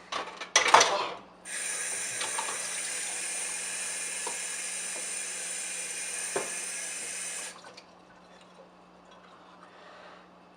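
A water tap running in a steady stream for about six seconds, then shut off abruptly. Just before it starts there is a short, loud burst of voice.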